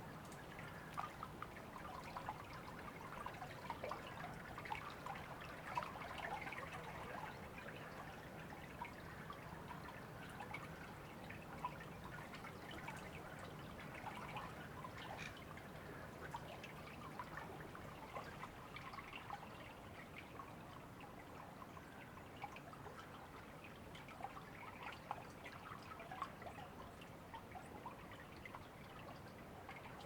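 River water running steadily over stones, trickling and splashing with many small drips.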